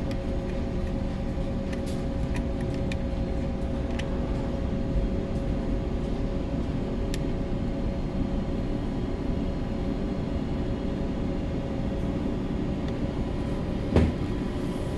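Steady low drone of a bulk carrier's machinery running, with a constant hum tone over a rumble. A single sharp knock comes about a second before the end.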